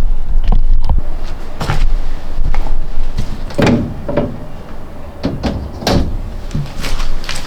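A series of irregular knocks and clunks, about seven over several seconds, over a low rumble.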